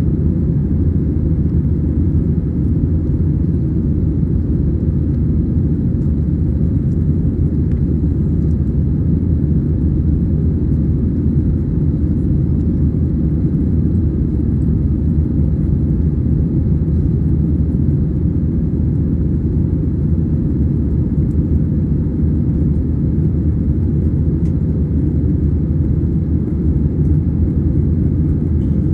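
Airbus A320-214 cabin noise heard from a window seat: a steady low rumble of the CFM56 engines and airflow, unchanging throughout.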